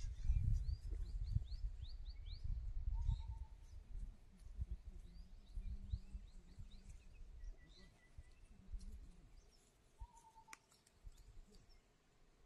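Small birds chirping: a quick run of short rising chirps about a second in and again around five to six seconds, with a few short held notes between, over a low rumble that fades after the first few seconds.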